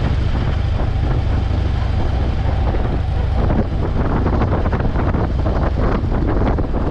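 Wind buffeting a helmet microphone on a moving motorcycle, a steady low rumble with the bike's engine and road noise underneath.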